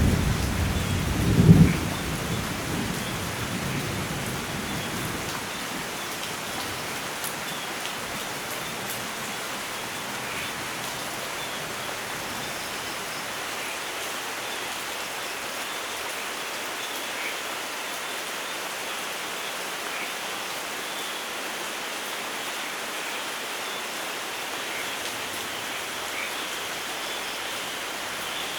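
A thunder rumble with a loud crack about a second and a half in, dying away over the next few seconds, then steady rain falling. A few faint bird chirps now and then.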